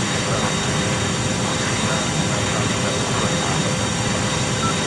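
Airliner jet engines running steadily: an even rushing noise with a faint constant hum under it.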